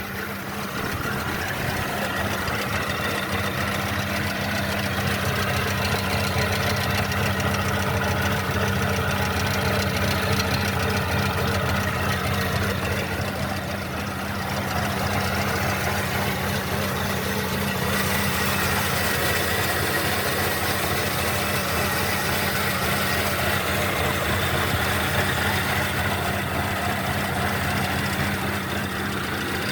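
Mercedes-Benz M271 1.8 CGI Kompressor four-cylinder petrol engine running steadily at idle, shown by its owner for an engine problem.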